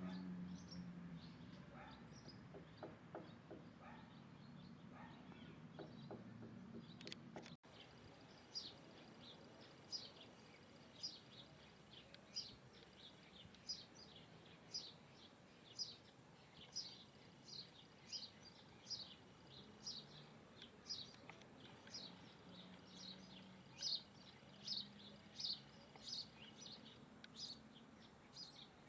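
A bird repeating a short, high chirp that slides downward, about one or two calls a second, steadily for over twenty seconds. Before that, a few seconds of faint low hum with soft ticks and fainter chirps.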